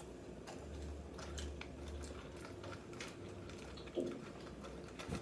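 Faint eating sounds: chewing and small scattered clicks, over a low hum that comes and goes. A short low murmur about four seconds in.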